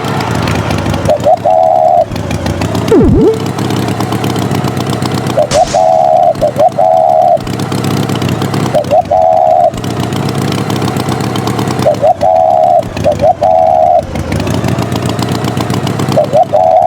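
Cartoon tractor engine sound effect running steadily, with short horn beeps in clusters every three seconds or so. A quick falling-and-rising swoop about three seconds in.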